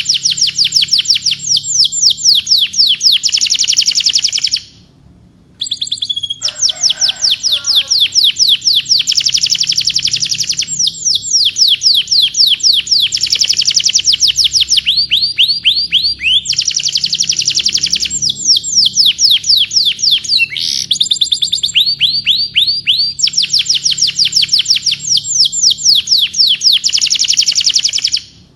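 Domestic canary singing: fast rolling trills of rapidly repeated downward-sweeping notes, one phrase running straight into the next, with a short break about five seconds in.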